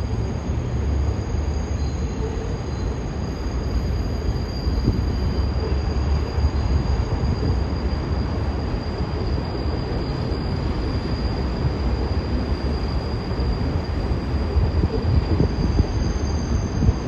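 New York City subway train running on elevated track: a steady rumble with a faint high-pitched whine, with louder wheel knocks over the rail joints near the end.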